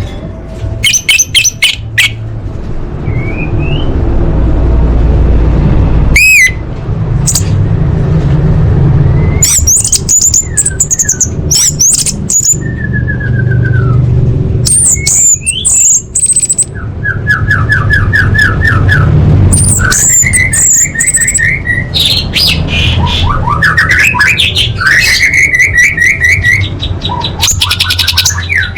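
Female orange-headed thrush calling: a varied run of sharp chirps, squawks, rising and falling whistled notes and quick rattling trills, over a steady low rumble.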